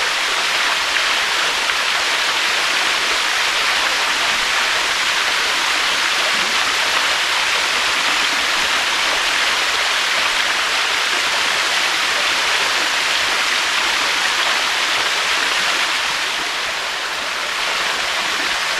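Waterfall: a steady, continuous rush of falling water, easing slightly for a moment near the end.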